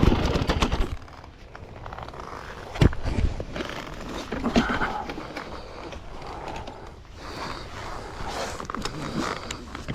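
Dirt bike's engine drops away about a second in, leaving tyres and bike crunching and scraping over rocks and loose gravel, with scattered clicks and one sharp knock about three seconds in.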